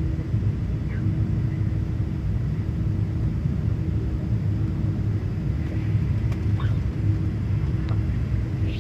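Boeing 777 airliner's engines and airflow on approach to landing: a steady low rumble with a constant hum.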